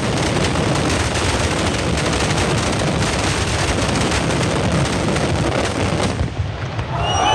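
Mascletà firecrackers going off in a dense, continuous barrage of bangs, which falls away about six seconds in.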